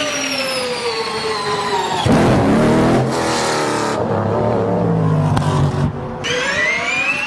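Hybrid car going from electric drive to its V8: a high motor whine falls in pitch, then about two seconds in the V8 engine cuts in abruptly with a deep, steady running note. Just after six seconds a rising whine comes in.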